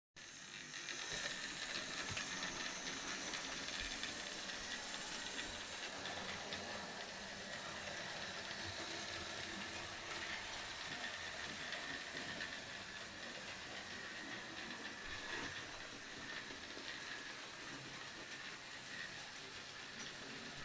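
Bachmann Thomas model locomotive running steadily along model railway track, pulling a short train, its small electric motor and wheels making a continuous hiss-like run with faint clicks.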